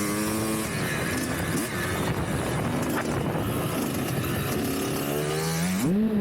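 Dirt bike engine running, its pitch climbing sharply near the end as the throttle is opened.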